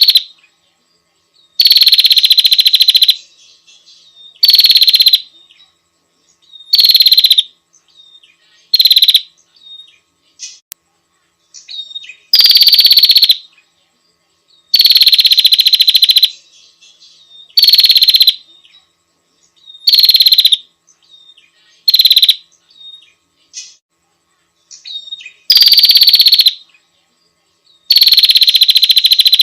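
Prinia giving loud, harsh buzzing calls in repeated bursts of about half a second to a second and a half, one every two to three seconds, with faint short chips between them.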